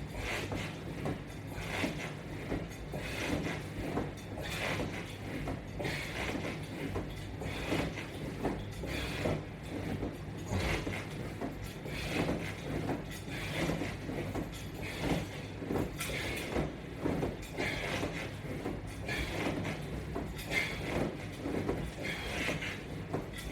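Repeated movement sounds of a person doing sit-ups and crunches against resistance straps, one rep about every second, over a steady low hum.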